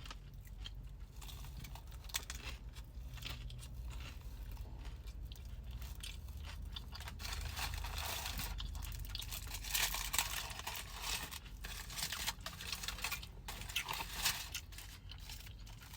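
Close-to-the-mic chewing and crunching of food, irregular, busiest in the second half, over a low steady hum.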